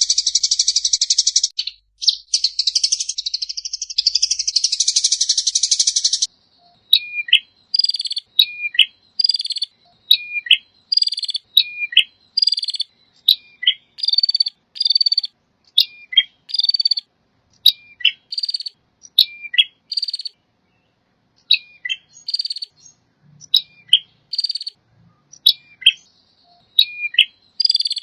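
Recorded songbird calls: a dense, buzzy, rattling call for the first six seconds or so, then an abrupt change to a repeated phrase, a short falling whistle and then a buzzy note, about once a second with small gaps.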